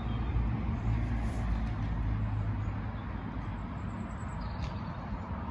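Steady low rumble of road traffic, a little louder in the first couple of seconds, with a few faint bird chirps near the end.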